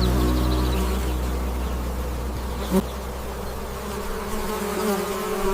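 Bee buzzing, a wavering hum. A low steady drone fades out over the first second and a half, and a single short tick comes about halfway through.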